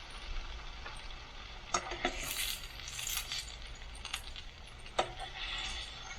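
Bacon sizzling in a frying pan, with a few sharp clinks of a utensil against the pan: two close together about two seconds in and one about five seconds in.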